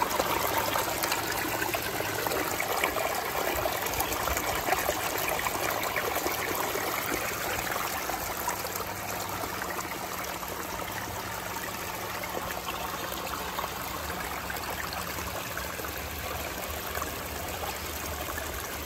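Water spilling over a small backyard pond waterfall into the reservoir below, a steady trickling and splashing flow.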